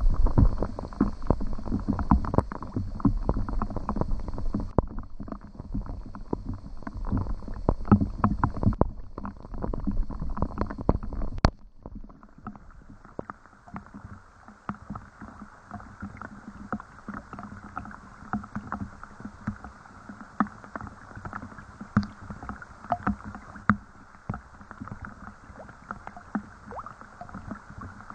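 Rain pattering: a dense run of small drips and splashes. About eleven seconds in it cuts off suddenly and carries on quieter and more even.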